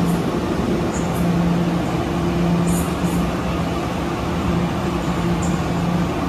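Puyuma Express TEMU2000 electric multiple unit pulling out of the station, a steady electric hum under running noise, with brief high squeaks every second or two.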